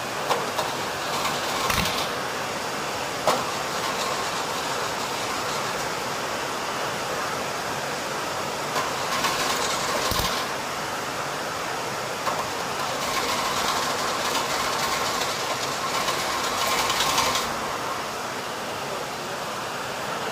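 Willys Hurricane four-cylinder petrol engine being cranked over in several tries, with louder stretches about a second and a half in, around nine to ten seconds, and from about thirteen to seventeen seconds. It is slow to start because the distributor is loose.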